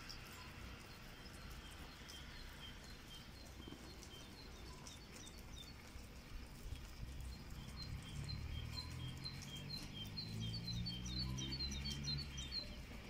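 Small birds chirping: short high chirps repeated again and again, growing busier in the second half, over a faint low rumble.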